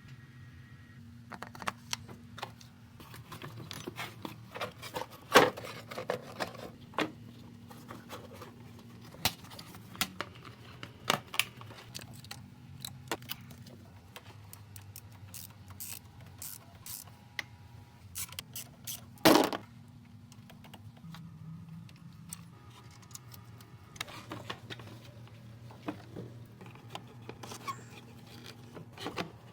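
Irregular metallic clinks, knocks and scrapes of tools and parts being handled during work on a car, over a steady low hum. The two sharpest knocks come about five seconds in and about nineteen seconds in.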